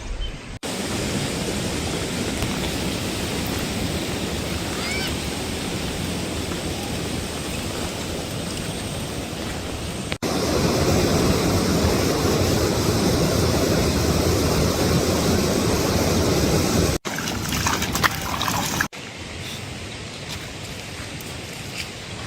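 Steady rushing of water, as from a swollen stream in heavy rain, heard in several clips cut together, loudest in the middle clip.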